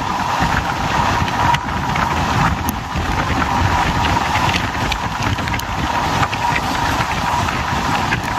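Tamil Nadu Express passenger train running along the track: a steady rumble of wheels on rails with a faint constant whine and occasional sharp clicks at the rail joints.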